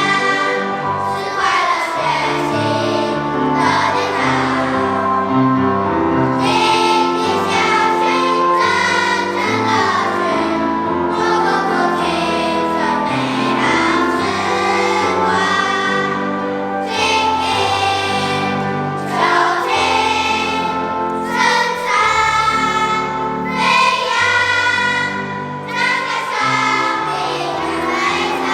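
Children's choir of fourth-graders singing together with instrumental accompaniment, the melody held in long sustained notes over steady low notes that change in steps.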